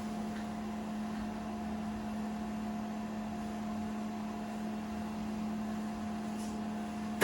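Steady hum of running equipment: an even low tone with a fainter higher tone above it and a light hiss, unchanging throughout.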